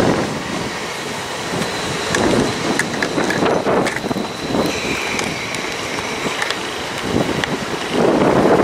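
Freight train of hopper wagons rolling past close by, its wheels rumbling and clicking over the rail joints, with a thin high squeal for a couple of seconds in the middle. Gusts of wind on the microphone swell near the end.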